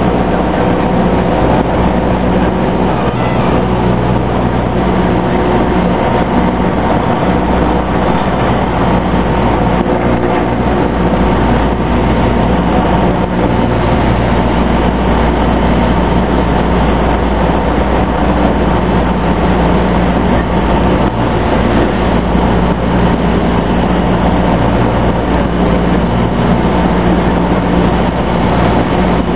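Cessna light aircraft's piston engine and propeller droning steadily, heard inside the cockpit.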